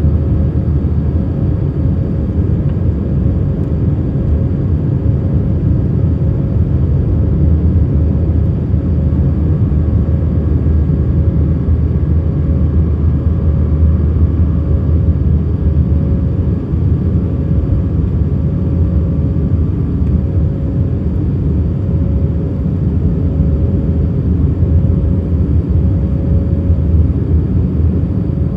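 Airbus A319 cabin noise in flight: a steady drone of the engines and airflow, with a faint steady hum over it.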